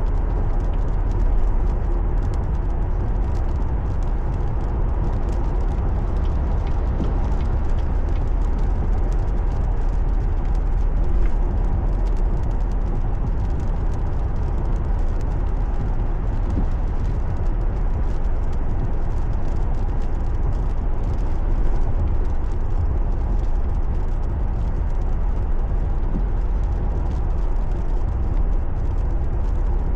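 Car driving, recorded from inside the cabin: a steady low rumble of engine and road noise with a few slight bumps.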